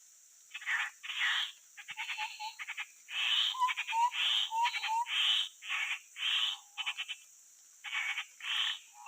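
Grey-headed babblers giving harsh, rasping scolding calls, about a dozen in quick succession with a short pause near the end. Short clear whistled notes near the low end are mixed in, and a steady high-pitched hiss runs underneath.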